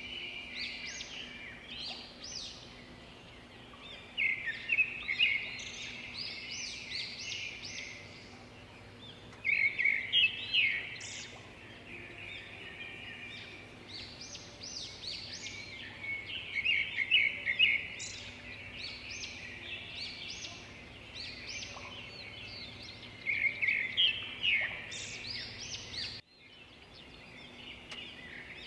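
Songbirds chirping and singing in quick clusters of high notes, with a faint steady hum underneath. Near the end the sound cuts out abruptly for a moment, then the chirping resumes.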